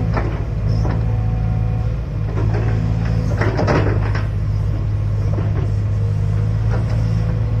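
Excavator engine running steadily, with scattered clunks and knocks from the machine's working parts.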